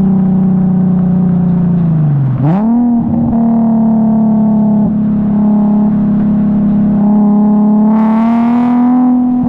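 Infiniti G37S's 3.7-litre V6 heard through a custom single 3-inch cat-back exhaust, droning steadily while driving. About two and a half seconds in the pitch drops sharply and swings back up, and near the end it climbs a little higher.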